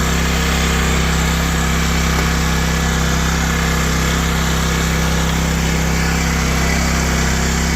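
Small portable generator's Kawasaki engine, a Coleman Powermate, running steadily at an even, unchanging speed with no air cleaner fitted.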